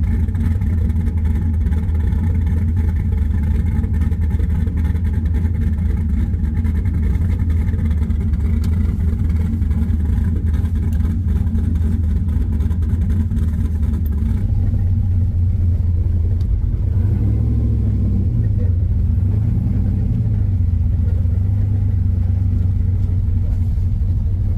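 A 1969 Camaro's engine running at a steady idle of about 900 rpm, heard from inside the cabin. About 14 seconds in the sound changes, and the engine pitch then rises and falls slowly as the car is driven.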